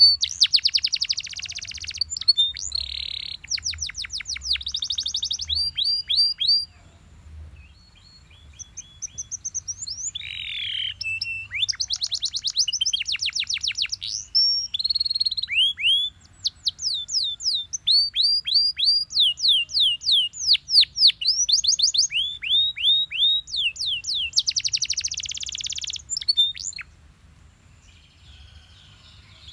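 Belgian canary singing: long phrases of fast repeated downward-sweeping notes alternating with buzzy rolls. The song pauses briefly about a quarter of the way in and again near the end.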